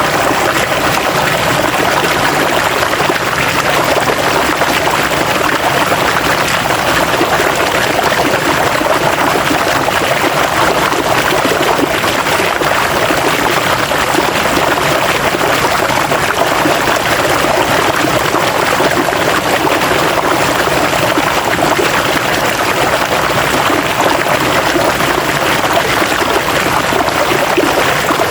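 River water flowing steadily over rocks: a constant rushing and splashing with no breaks.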